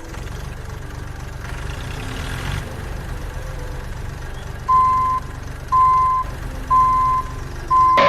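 An engine running steadily with a low, fast-pulsing rumble. About halfway in, a reversing beeper sounds four times, roughly once a second.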